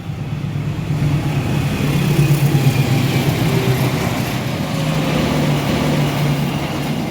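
Motor vehicle engine running with a steady low hum, growing louder about a second in and easing off toward the end.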